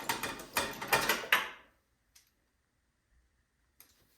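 Quick run of clicks and metal rattles from hand tools working at the snowblower engine as the spark plug is taken out, lasting about a second and a half before it goes quiet.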